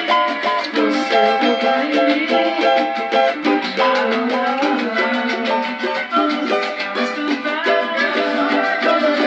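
Cavaquinho playing an instrumental passage, a quick run of plucked melody notes over chords.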